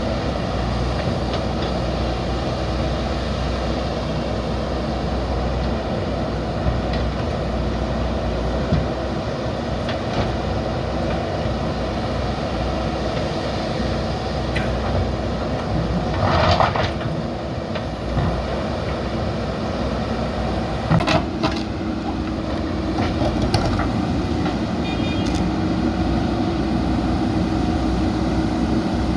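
JCB backhoe loader diesel engines running steadily under work, with a brief louder scrape a little past halfway and a few short sharp knocks later.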